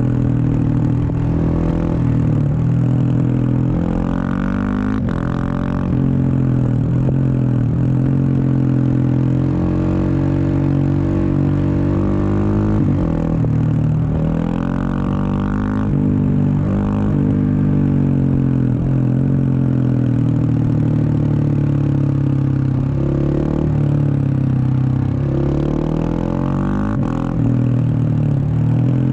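Husqvarna 701 Supermoto's single-cylinder engine running through a Wings aftermarket exhaust while ridden on the road. The engine note climbs in pitch under acceleration and drops back at gear changes and when the throttle is rolled off, several times over.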